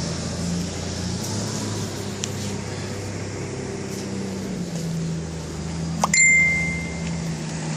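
A steady low engine hum. About six seconds in comes a click and then a short, high electronic beep.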